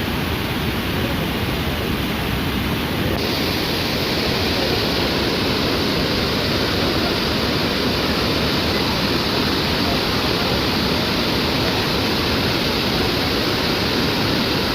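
Large waterfall, water falling and rushing in a steady, dense hiss; about three seconds in the hiss becomes brighter.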